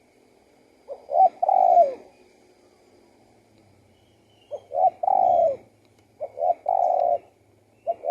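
Spotted dove cooing: three phrases, each of two or three short coos followed by a longer falling coo.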